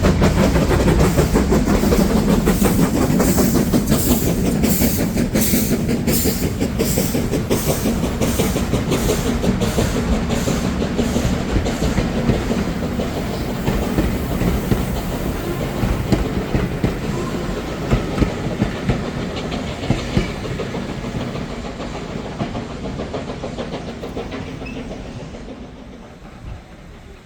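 Train running past and drawing away, its wheels clicking rhythmically over rail joints, the sound loud at first and fading steadily into the distance.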